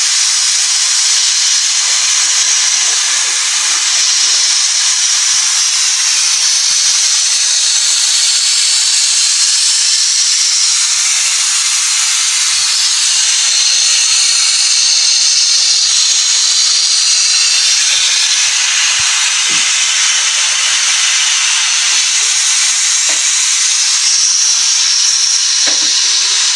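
Pressure cooker venting steam through its release valve while it is being depressurised: a loud, steady hiss.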